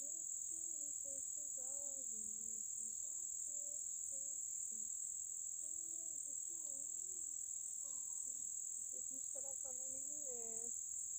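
Steady high-pitched drone of a rainforest insect chorus that does not let up. A quiet voice murmurs underneath it now and then.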